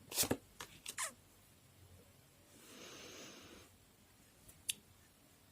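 Quiet handling noises: a few short clicks near the start, a brief soft rustle around the middle, and one more sharp click near the end.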